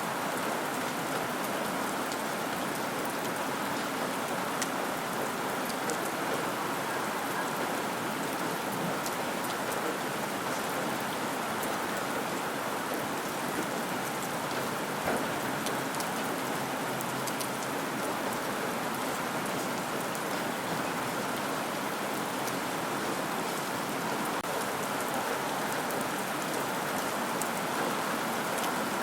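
Steady rain with fine scattered drop ticks, and a faint single knock about fifteen seconds in.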